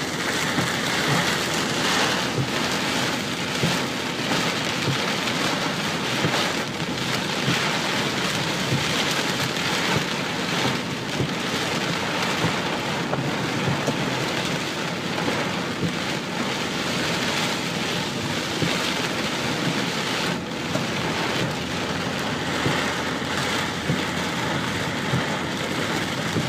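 Heavy rain falling steadily, with a dense spatter of drops striking close by.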